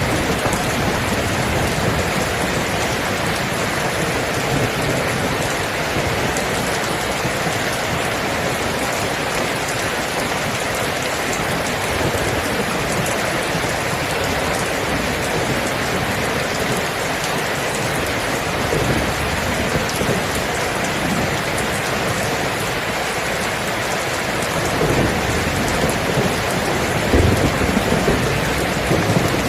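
Steady rain falling, with low thunder rumbling a couple of times, most noticeably near the end.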